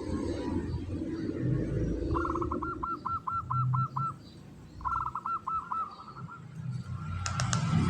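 Zebra dove (perkutut) cooing in quick staccato runs, the rattling 'ngretek' style: two bursts of about eight rapid notes, then a trilled note near the end.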